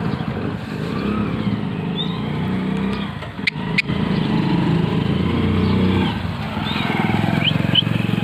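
A motor vehicle engine running steadily, with two sharp clicks about three and a half seconds in and a few short high parrot chirps near the end.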